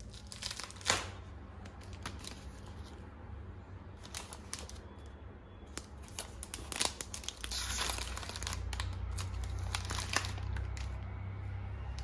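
Wrapping material crinkling and rustling as it is handled, in irregular crackly bursts that grow busier about halfway through, over a low steady hum.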